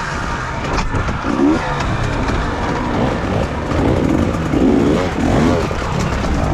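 Off-road enduro motorcycle engine revving in short bursts, pitch rising and falling with each blip of the throttle as the bike is worked over a rock section.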